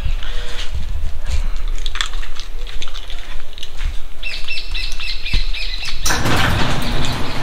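Birds chirping, with a run of short repeated high notes in the middle, over a steady low rumble and scattered clicks. A loud rushing noise comes in about six seconds in.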